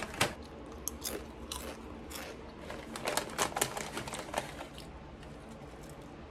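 Doritos tortilla chip being chewed close to the microphone: a run of crisp crunches for the first four seconds or so, then quieter chewing.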